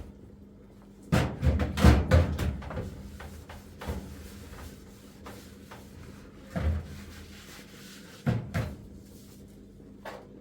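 A burst of knocks and clattering about a second in, as of objects being handled and set down, followed by a few single knocks later.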